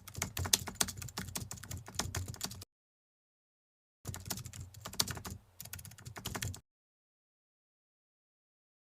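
Rapid computer-keyboard typing clicks in two runs, each stopping abruptly into dead silence.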